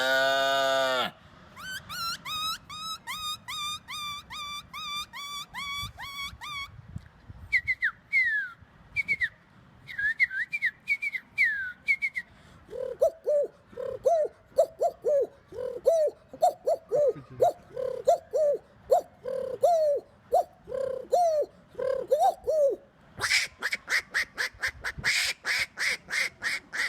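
A man imitating animals with his voice: first rapid bird chirps and falling whistles, then a long run of duck quacks. Near the end comes a fast series of sharp rattling calls.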